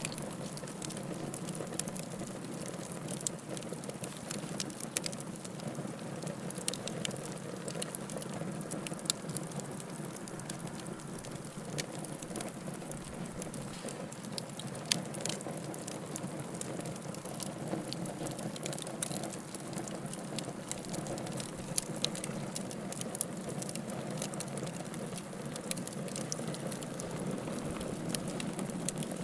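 Wood fire burning in a fireplace, with a steady hiss and frequent irregular sharp crackles and pops from the firewood.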